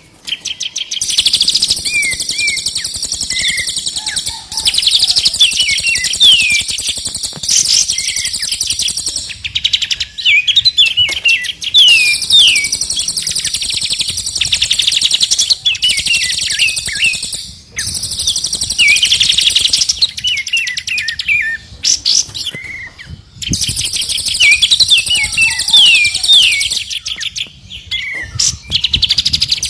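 Several songbirds singing together: dense, rapid high-pitched trills overlaid with repeated falling whistled notes, broken by a few brief pauses. It is a mix of three birds' songs used as masteran to tutor caged songbirds.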